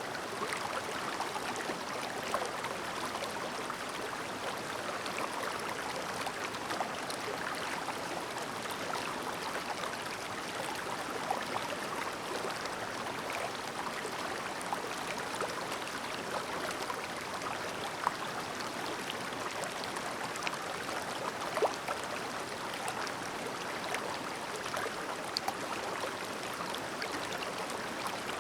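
Clear, shallow mountain stream babbling steadily, with small splashes and droplet ticks here and there in the running water.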